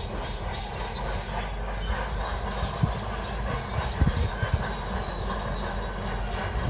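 Crawler bulldozer running, its steel tracks clanking and squealing, with a few sharper knocks over the steady engine noise.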